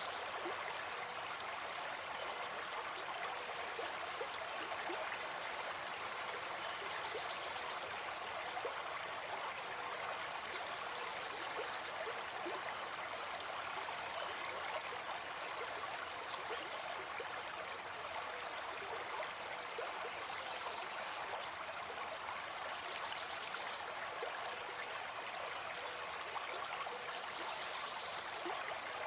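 Gentle forest stream flowing, a steady, unbroken babble of running water.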